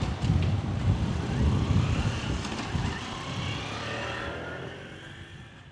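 Kintetsu electric train running past a railway level crossing: a low rumble with a few sharp clicks near the start and faint higher tones later, dying away as the train draws off.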